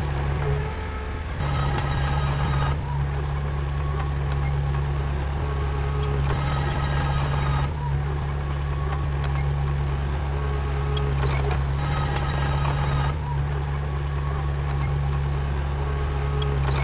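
Heavy machinery's diesel engine running steadily. Three times, a higher whine rises over it for a second or two.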